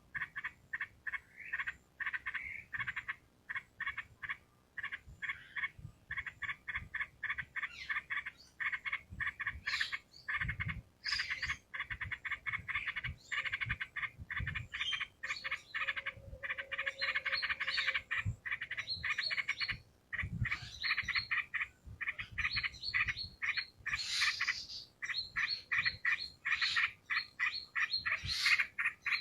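Yellow-vented bulbul (trucukan) singing nonstop: a long run of quick chattering notes, several a second, with a few higher, sharper notes mixed in.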